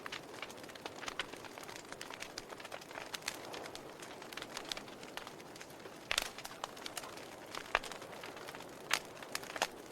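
Wood fire crackling in a fireplace: irregular sharp pops and snaps over a soft, steady hiss, with louder pops in the second half.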